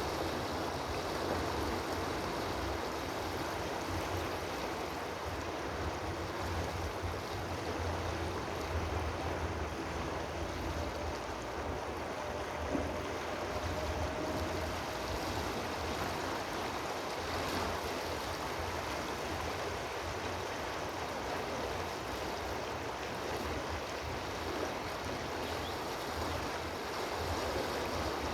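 Steady rush of flowing water, like a stream, with a low rumble underneath.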